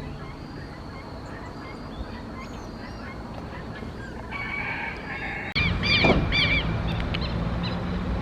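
Wild birds calling: faint chirps at first, then a run of about five loud, repeated honking calls starting about five and a half seconds in, over a low rumble.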